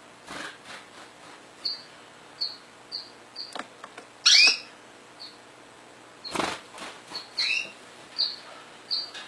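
Pet canary giving short, high single chirps at irregular intervals, with two louder downward-sweeping calls, the loudest about four seconds in. A few brief rustles or knocks come between the chirps.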